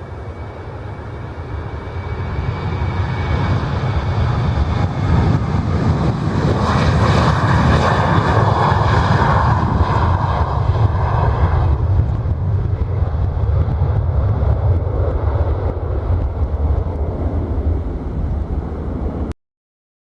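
Jet airliner's engines as it passes close by. The sound builds, is loudest around the middle, stays loud, then cuts off suddenly near the end.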